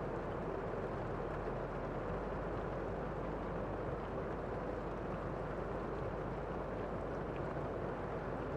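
Steady rain falling outside a window, heard from indoors as an even, muffled hiss with a few faint ticks of drops.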